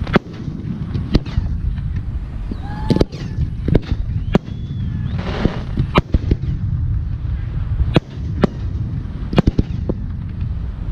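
Aerial firework shells bursting: a dozen or so sharp bangs at irregular intervals, some in quick doubles and triples, over a continuous low rumble.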